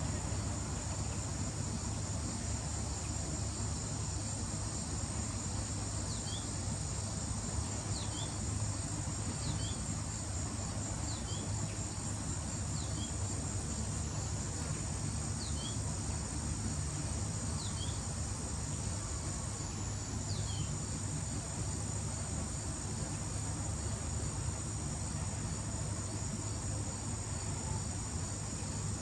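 Insects trilling steadily at a high pitch over a low, even rumble. A short falling chirp repeats about eight times, every second or two, through the middle of the stretch.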